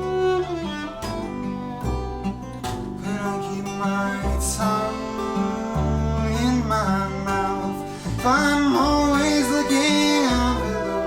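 Live acoustic folk band playing: plucked guitar over low bass notes with viola, and a gliding melodic line rising over them in the second half.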